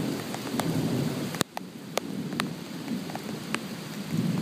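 Heavy thunderstorm rain with a low rumble of thunder, and raindrops striking close to the microphone as scattered sharp ticks, one louder crack about a second and a half in.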